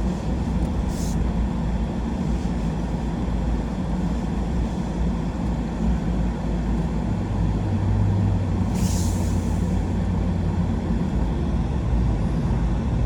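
Truck driving: a steady low engine and road rumble, with a short hiss about nine seconds in.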